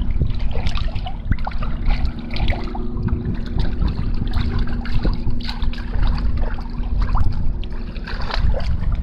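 Water splashing and trickling irregularly against the hull of a Folbot Super 17.5 folding kayak under sail, over a steady low rumble of wind on the microphone.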